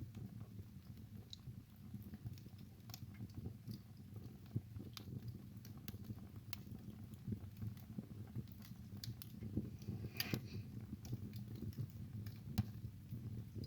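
Wood fire burning in a fireplace: irregular crackles and sharp pops over a soft low rumble of flame, with a louder cluster of pops about ten seconds in.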